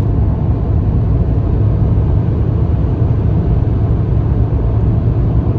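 Loud, steady low rumble of a running car close to the microphone, with no change in pitch; it cuts in and out abruptly.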